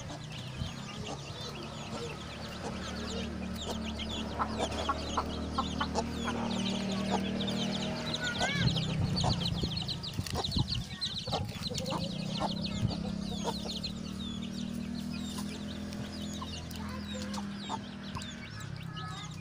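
Ayam kampung (Indonesian village chickens) clucking, with many quick, high peeps throughout and a low steady hum underneath.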